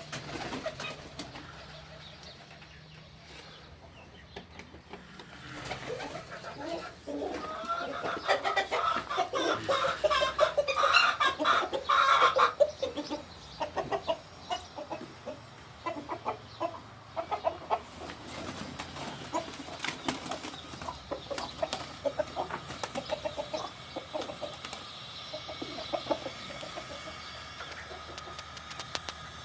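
Broody hens clucking, with a loud flurry of squawking from about six to twelve seconds in, then clucking again in shorter, quieter calls.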